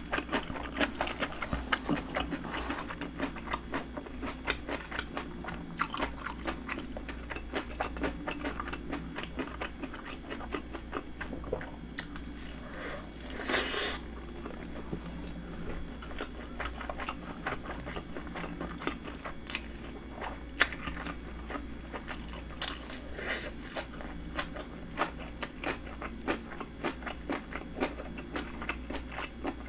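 Close-miked eating sounds: steady chewing with many small crisp crunches as a person eats fried shrimp and salmon inari sushi. A brief louder rushing sound comes about fourteen seconds in.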